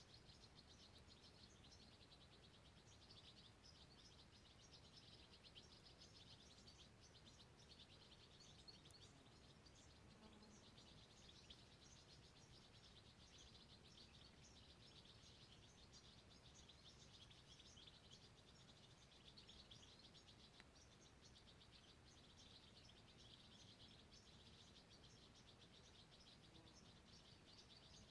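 Faint, continuous high-pitched chirping from small animals in the wild: a dense trill of very rapid ticks that swells and eases every few seconds.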